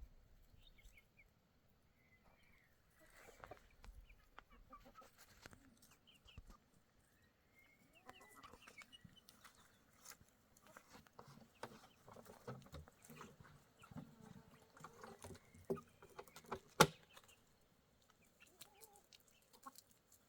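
Chickens clucking quietly, with scattered small clicks and knocks and one sharp click near the end.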